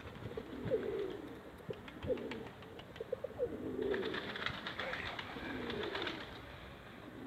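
Pigeons cooing: several low, rolling coos repeat about once a second and overlap, with scattered light clicks and taps among them.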